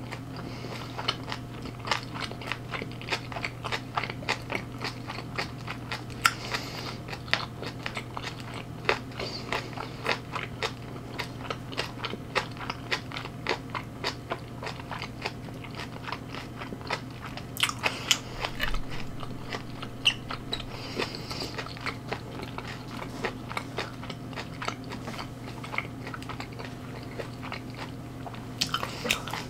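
Close-miked chewing and crunching of food, with dense wet clicks many times a second, over a steady low hum.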